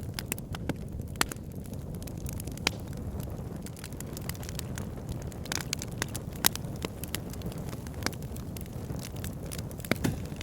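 Campfire burning: scattered, irregular sharp pops and crackles over a steady low rumble of the flames.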